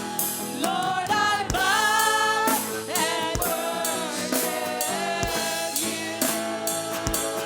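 Live gospel worship music: singers carry a melody that slides between notes over a band with drum kit, a bass drum hit landing about every two seconds under steady cymbal strokes.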